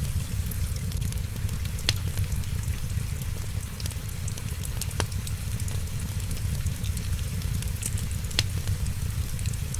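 Wood fire crackling in a fireplace, with scattered sharp pops, three louder ones about two, five and eight seconds in, over a steady low rumble and hiss.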